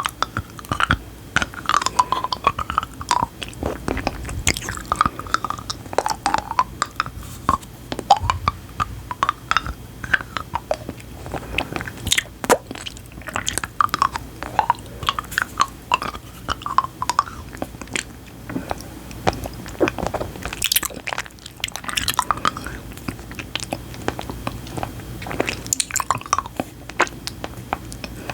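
Close-miked chewing and wet mouth sounds, a dense irregular run of sharp clicks and squelches.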